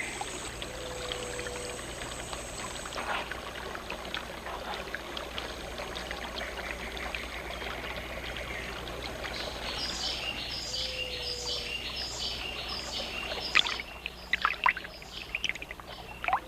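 River water running steadily. From about ten seconds in comes a quick run of high chirping calls, about eight of them, followed near the end by a few sharp sounds.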